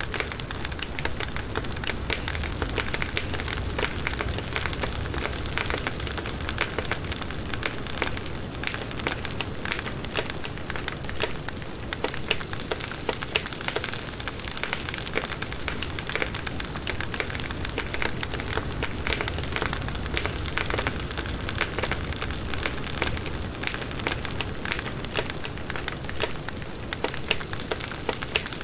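Firewood burning in a campfire: a dense, irregular crackling and popping of the burning wood over a steady low rumble of the flames.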